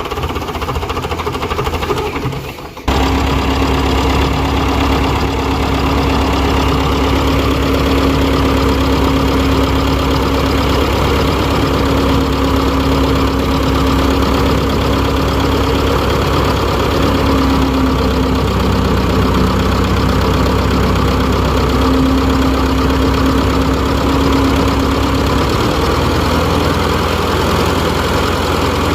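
Fordson Super Major tractor's four-cylinder diesel engine running steadily. There is a brief dip and a sudden return about three seconds in, and the engine's note shifts near the end.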